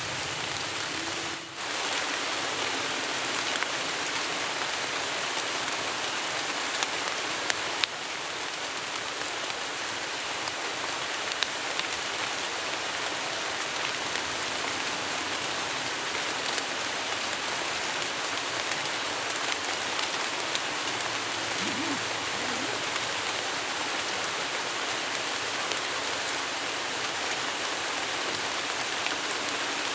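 Heavy rain falling steadily, with scattered sharp drop hits; the rain briefly dips about a second and a half in.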